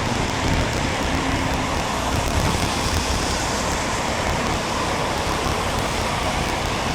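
Steady traffic and wet-road noise heard from a moving bicycle in the rain, with an uneven low rumble of wind on the microphone.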